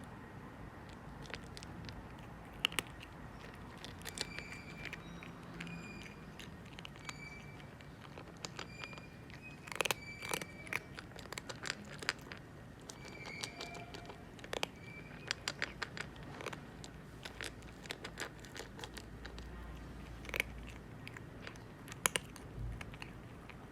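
Calico cat chewing and crunching its food, with irregular sharp crunches that come in quick runs and pauses.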